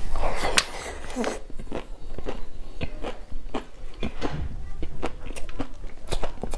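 Close-miked chewing of a hand-fed mouthful of rice and singju salad: wet mouth clicks and smacks at an irregular pace, louder in the first second as the food goes in.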